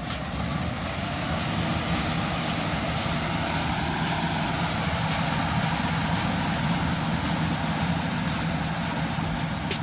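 Engine of heavy farm machinery running steadily, a constant low hum over a wash of mechanical noise.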